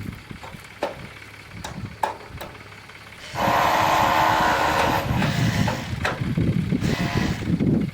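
Diesel farm machinery running, quiet at first with scattered light clicks, then suddenly loud about three seconds in and staying loud and steady.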